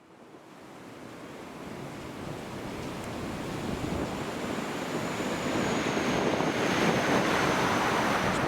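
Strong wind rumbling and buffeting on the camcorder's microphone, growing steadily louder, with a faint high whistle through the second half.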